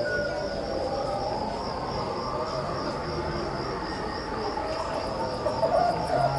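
Crickets chirping: a steady, finely pulsing high trill, over a lower wavering hum.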